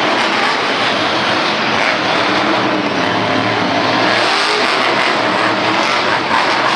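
Monster truck engine running hard, a loud, continuous engine noise without pause.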